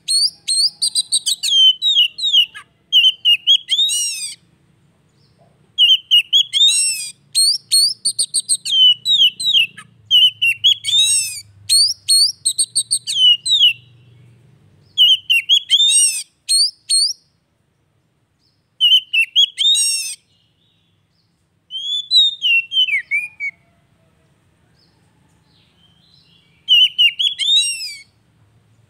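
Oriental magpie-robin (kacer) singing loud, varied whistled song phrases, each a second or two long with quick sweeping notes and rapid trills, separated by short pauses. The pauses grow longer in the second half.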